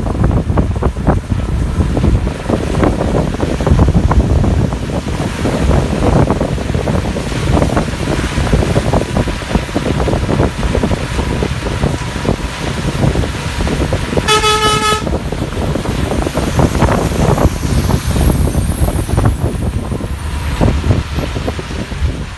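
Moving bus: steady engine and road rumble with wind buffeting the microphone, and one short horn toot about two-thirds of the way through.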